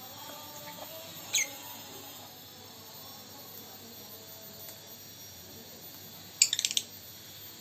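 Lovebird calling: one short, shrill, falling chirp about a second and a half in, then a quick burst of several shrill chirps near the end, the loudest sound here.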